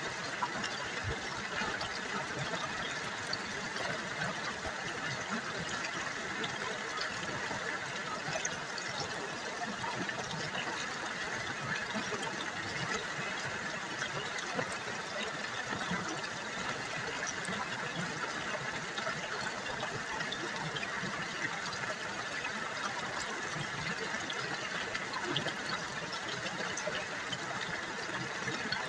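River water babbling steadily, a continuous splashing trickle.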